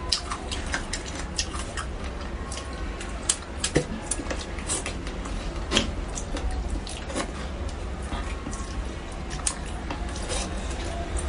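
Close-up eating sounds of someone chewing spicy braised fish: irregular wet mouth clicks and smacks, a few sharper ones, over a steady low hum.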